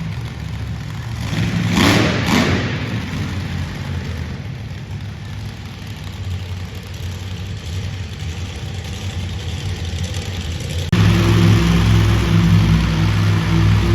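Monster truck engine running and revving in an arena, with a short loud burst of noise about two seconds in. About eleven seconds in the engine suddenly becomes much louder and steady.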